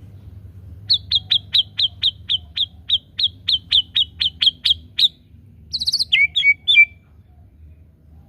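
White-rumped shama singing: a fast run of about sixteen sharp, downward-sweeping notes, around four a second. It ends in a short rattling trill and a few lower notes.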